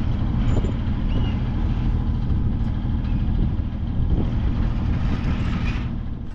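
Sailing yacht's inboard engine running steadily under way, a constant low drone with wind and water noise over it.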